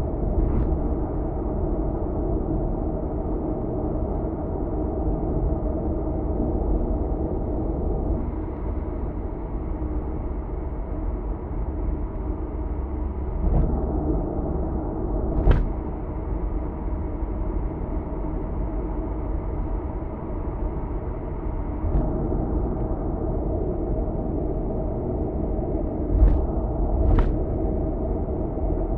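A car driving at expressway speed: steady tyre and road rumble with engine noise. A few short sharp knocks cut through it, one about halfway through and two close together near the end.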